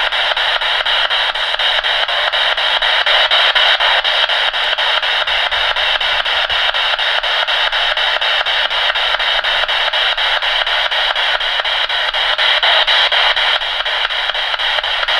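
Spirit box scanning through radio stations: a steady, loud hiss of radio static chopped by quick, even ticks as it sweeps, with no voices coming through.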